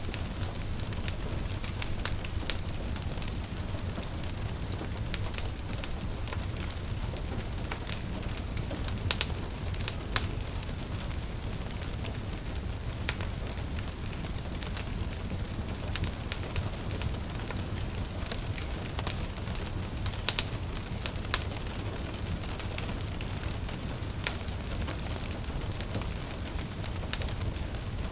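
Wood fire crackling, with frequent sharp pops scattered irregularly, over a steady patter of rain and a low rumble.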